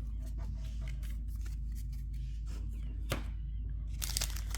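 Pokémon trading cards being handled and shuffled, with light clicks and rustles, and a brief crinkle of a foil booster pack near the end, over a steady low hum.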